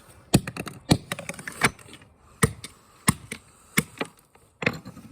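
Irregular sharp knocks and clicks on the hard plastic casing of a small portable speaker being pried and broken open, about seven loud strikes with lighter clicks between.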